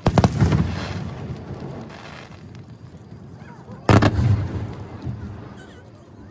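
Two fireworks shells bursting about four seconds apart, each a sharp bang that trails off in a low rumble for about a second.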